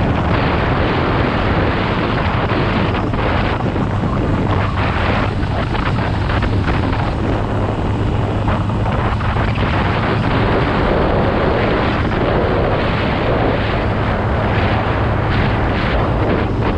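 Motocross dirt bike engine running at a steady speed while riding, with heavy wind noise rushing over the microphone.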